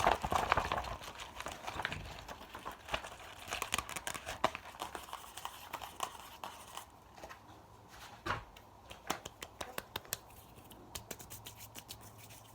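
Close-miked ASMR mouth sounds: rapid wet clicks and smacks, dense at first and thinning out into sparser single clicks after about halfway.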